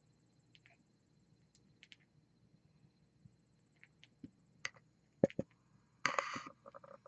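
Pet birds at their food: scattered small clicks and taps, two sharp clicks about five seconds in, then a brief scratchy rustle about six seconds in.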